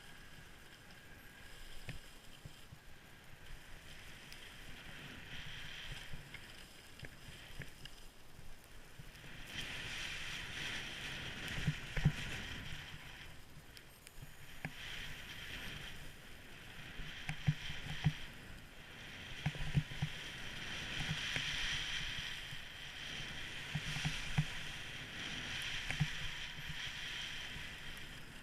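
Skis hissing and scraping over snow, the scrape swelling and fading every few seconds, with scattered low thuds.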